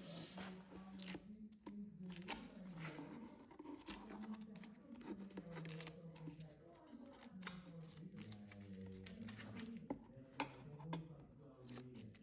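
Quiet background music with held low notes moving in steps, over scattered light clicks and scraping from small hand work on wood.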